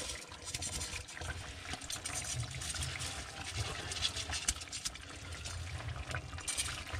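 Drained, soaked rice being poured into a kazan over the meat-and-carrot zirvak, the grains falling in as a steady pattering trickle.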